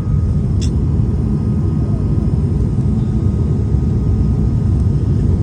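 Steady low roar of cabin noise inside an Airbus A220 on its landing approach, from its Pratt & Whitney PW1500G geared turbofan engines and the airflow over the fuselage, with a faint steady whine above it.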